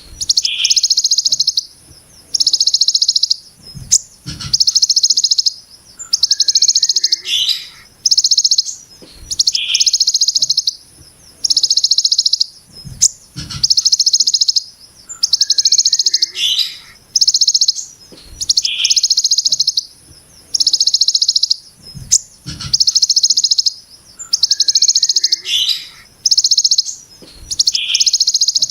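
Ciblek gunung songbird giving its 'brem' call over and over: a dense, harsh, rapid high-pitched rattle lasting a second or so, each led by a quick falling note, repeated about every two seconds.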